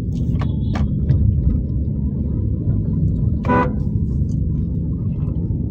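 Steady low rumble of a car driving in city traffic, with a single short vehicle horn toot about three and a half seconds in. Two short high clinks sound near the start.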